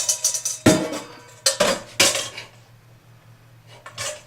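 Kitchen bowl clattering as it is handled, with several sharp knocks in the first two seconds and a softer one near the end.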